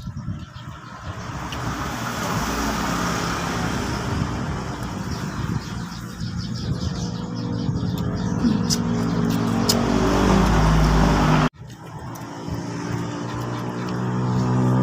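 A motor vehicle engine running and slowly getting louder, with a sudden break about eleven and a half seconds in before it resumes.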